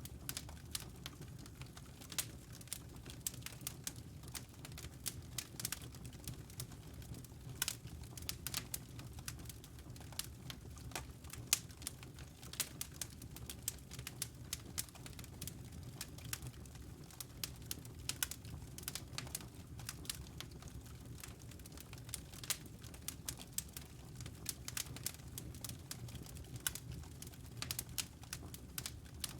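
Wood fire crackling in a fireplace: irregular sharp pops and snaps, several a second and varying in strength, over a steady low rumble.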